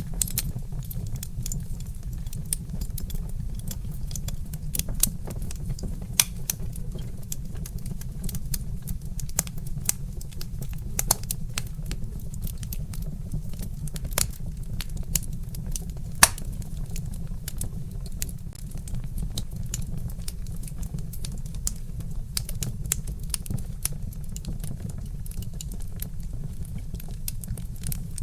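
Log fire crackling: irregular sharp snaps and pops, one louder pop about sixteen seconds in, over a steady low rumble.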